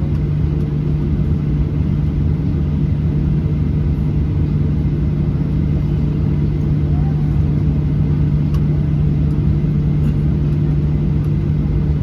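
Cabin noise inside a Boeing 737-800 near the front of the cabin: a steady low drone and rumble from its CFM56-7B engines and airframe, holding level without rising or falling.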